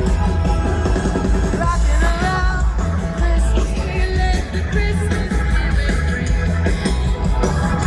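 Live rock band playing loudly, with heavy bass and drums and some singing over it.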